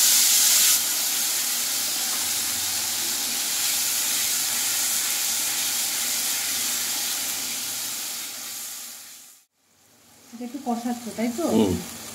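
Tomato paste sizzling as it fries in hot oil in a kadai, stirred with a wooden spatula. The sizzle is loudest for the first second, settles to a steady hiss, then fades out about nine seconds in.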